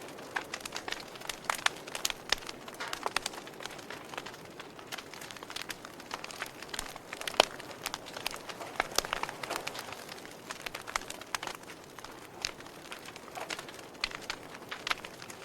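Wood fire crackling in a fireplace: irregular sharp pops and snaps over a soft steady hiss, with one louder snap about seven seconds in.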